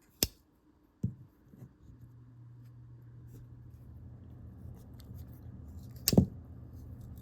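A few sharp clicks and knocks from handling the Case pocketknives, the loudest a double click about six seconds in. A faint low hum comes in about two seconds in.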